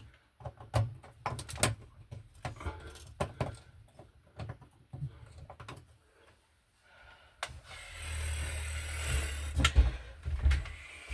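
Screwdriver and screw clicking and knocking while someone works a stripped screw head. About seven and a half seconds in comes a longer scraping noise of two or three seconds, with a few knocks in it.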